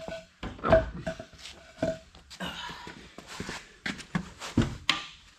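Metal clanks and knocks from tools and parts being handled on a corn head during reassembly. Several strikes ring briefly, and the heaviest thump comes under a second in.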